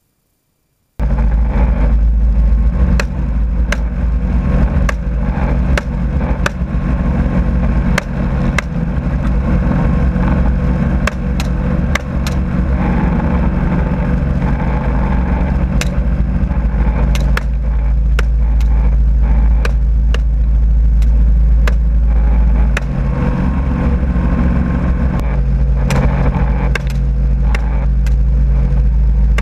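Helicopter engine and rotor drone, loud and steady, with faint light clicks scattered through it; it cuts in after about a second of silence.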